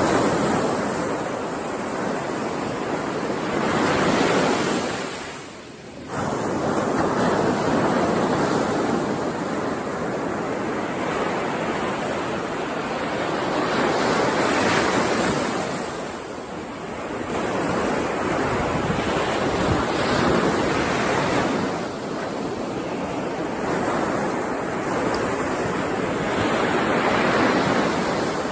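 Ocean surf: waves breaking and washing in, the rushing noise swelling and ebbing every few seconds, with a brief sharp dip about six seconds in.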